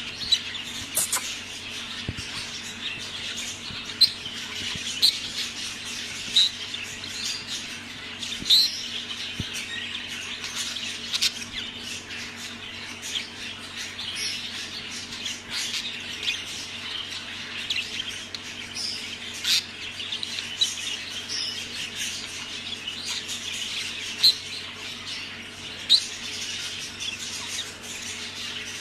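Budgerigars chattering steadily, with frequent short, sharp squawks standing out above the warble.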